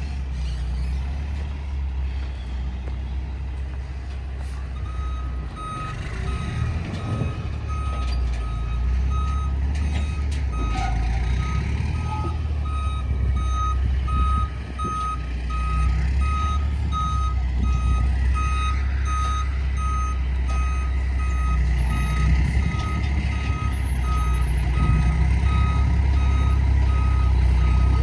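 Diesel dump truck running and reversing, its engine a steady low rumble, with its reversing alarm beeping about once a second from about five seconds in.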